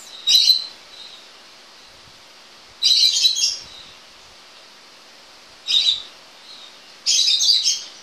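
A bird chirping in four short bursts of high, rapid chirps a couple of seconds apart.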